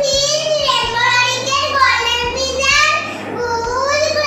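A young girl's high voice calling out names one after another in a sing-song chant, each drawn out: a child reciting bird species names.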